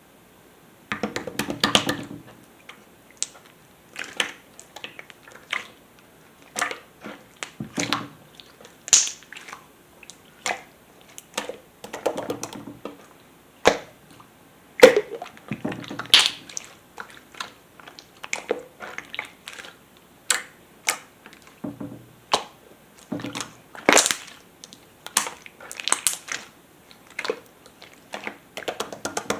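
Hands squishing and poking a glossy pearl slime, making irregular sticky clicks, pops and crackles.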